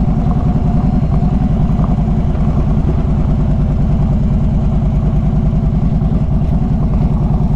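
Harley-Davidson Street Glide V-twin engine running steadily, its exhaust pulsing evenly with no change in revs.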